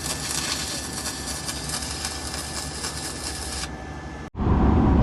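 Electric arc welding on a car sill: a steady crackling hiss for nearly four seconds that stops abruptly. After a short gap a louder low rumble comes in.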